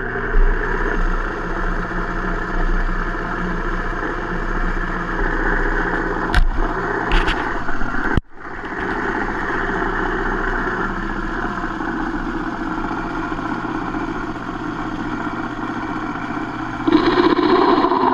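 Hendey metal lathe running under power, a steady machine drone with gear and motor whine. It drops out for an instant about eight seconds in and grows louder and fuller near the end.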